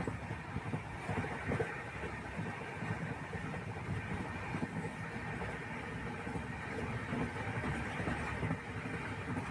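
Steady running rumble of a moving vehicle heard from inside, with a dense low rumble and irregular low knocks.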